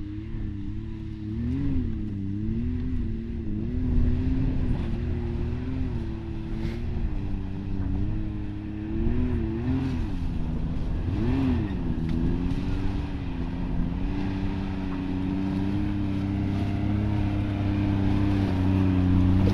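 Side-by-side UTV engine running, with short throttle blips that swing its pitch up and back down several times, growing slightly louder near the end.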